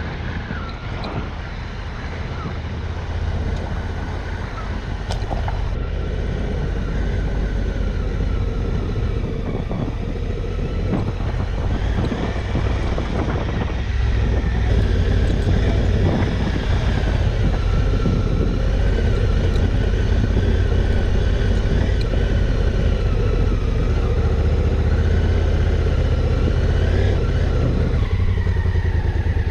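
Adventure motorcycle engine running steadily under way on a rocky dirt track, with tyre and wind noise; it gets somewhat louder about halfway through.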